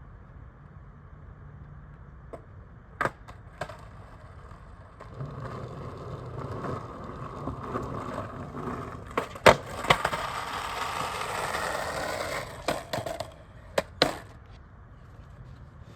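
Skateboard wheels rolling on concrete, building up from about five seconds in, with sharp clacks and slaps of the board hitting the ground, the loudest in the middle and a few more near the end.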